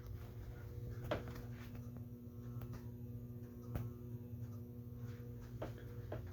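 The motor of a 52-inch Aircool Hugger ceiling fan running at a low setting on a solid-state speed control, giving a steady hum. A few faint clicks sound over it.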